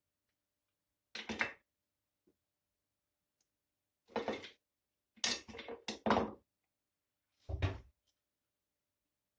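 A few short knocks and clatters of kitchen things being handled and set down, in four separate bursts with silence between them.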